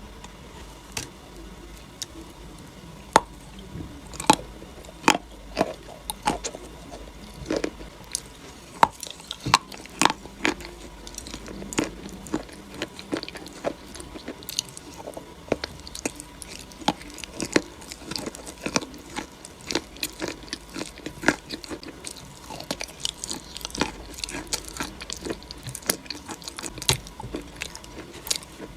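Close-up biting and chewing of something crunchy, with many sharp, irregular crunches and crackles throughout.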